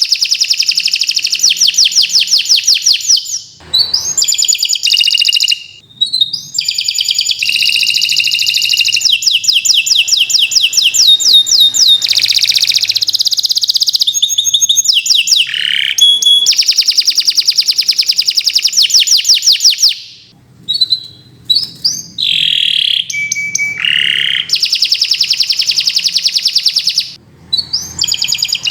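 Domestic canary singing a long, loud song of rapid trills, each run a string of fast, evenly repeated notes lasting a few seconds before switching to another phrase, with a few brief breaks.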